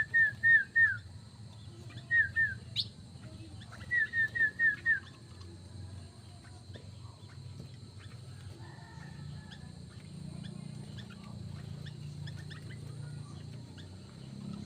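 Aviary birds calling: a loud bird call of quick, sharp, downward-slurred notes repeated about four or five times a second, in three runs within the first five seconds. After that only faint scattered chirps over a steady low hum.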